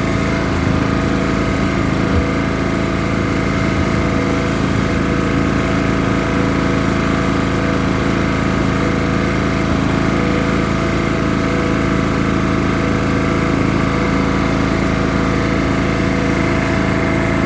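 Ride-on lawn tractor's engine running at a steady speed with an even drone. There is no change in pitch or level throughout.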